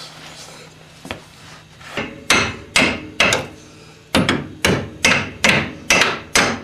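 A hammer striking metal in a steady series, about two blows a second with a short ring after each, as a tight-fitting front suspension part is driven into place.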